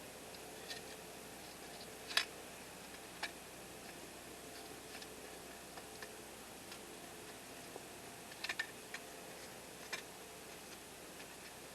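Wood campfire crackling: irregular sharp pops and snaps over a faint steady hiss, the loudest pop about two seconds in and a quick cluster of snaps near the end.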